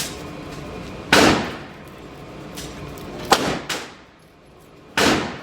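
Pistol shots fired at a target, three loud shots about two seconds apart, each ringing out briefly, with a fainter crack just after the second.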